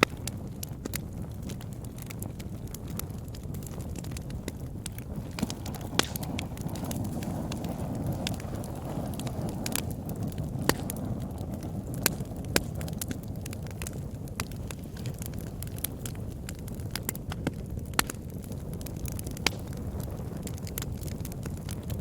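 Fire burning in a fireplace: a steady low rush of flames with scattered sharp crackles throughout and several louder pops.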